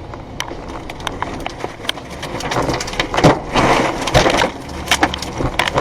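A rushing noise with many sharp cracks and knocks scattered through it, swelling loudest in the middle.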